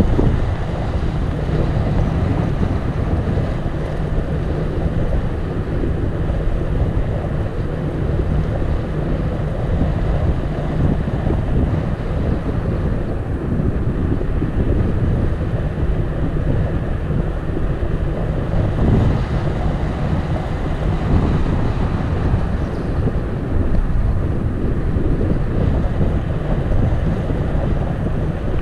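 Wind buffeting the microphone of a camera on a moving bicycle: a steady low rumble of wind noise.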